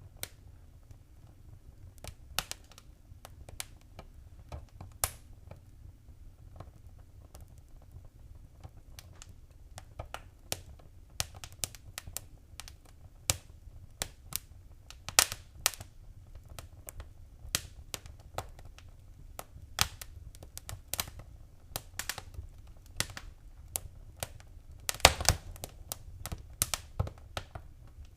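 Wood fire crackling in a fireplace: irregular sharp pops and snaps over a low, steady rumble of the flames, with a cluster of louder pops near the end.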